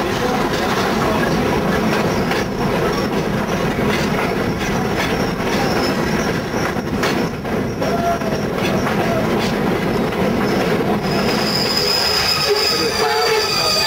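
Conway Scenic Railroad passenger train running along the track: a steady rumble with the clicks of wheels over rail joints. About eleven seconds in, a high, steady wheel squeal sets in.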